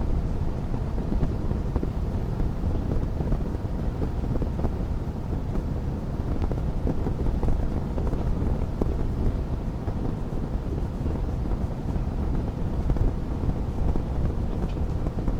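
Wood fire crackling in a fireplace: a steady low rumble of flames dotted with frequent small, sharp pops.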